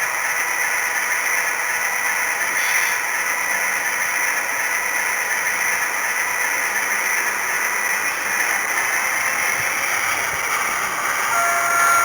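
H0-scale model train running on its track, a steady hiss-like running noise mixed with the Brawa BR 232 model's diesel sound from its sound decoder. A horn note from the model's sound decoder starts near the end.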